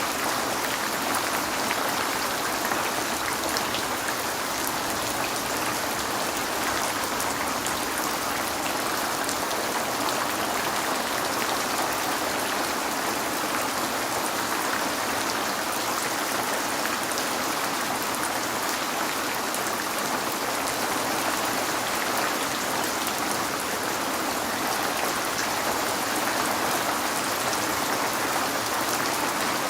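Steady rain falling, with fine drop ticks of raindrops striking a window pane.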